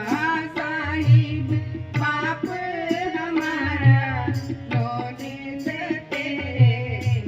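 Gurbani kirtan: a voice singing a wavering devotional melody over tabla, whose deep bass-drum strokes sound in a steady rhythm.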